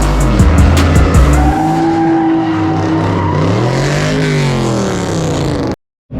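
Car engine revving up and down with tyres squealing, over bass-heavy music that is loudest in the first second and a half. The sound cuts off abruptly near the end.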